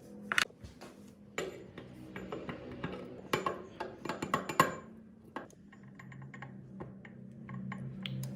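Metal parts and tools clinking and tapping in a quick irregular run of sharp knocks, thinning out to occasional taps over a faint steady hum.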